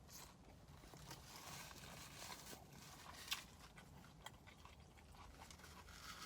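Faint close-up chewing and mouth smacks of someone eating a soft cheeseburger, with a sharper click about three seconds in.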